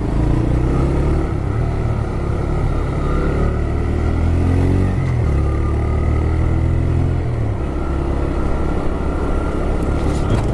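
TVS Raider 125's single-cylinder 125 cc engine running under way, its revs rising and easing back a few times.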